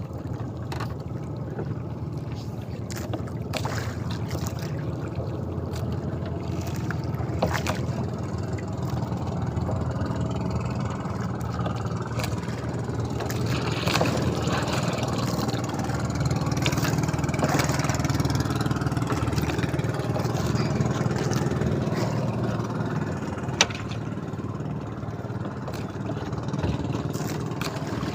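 Small fishing boat's engine running steadily, with a few knocks on the hull.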